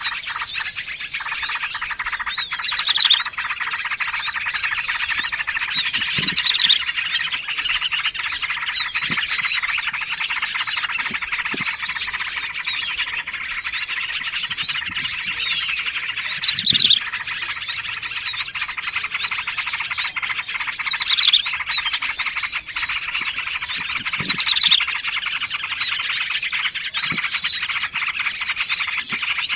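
Bird-trapping lure recording of small Indonesian songbirds: a dense, continuous chorus of many overlapping chirps and chattering calls, mixed from trucukan (yellow-vented bulbul), prenjak, sirtu and sogon calls. Faint short low calls sound every few seconds beneath it.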